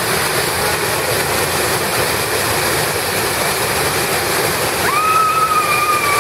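Waterfall rushing steadily. About five seconds in, a long high call at a steady pitch rises in over the rush and holds.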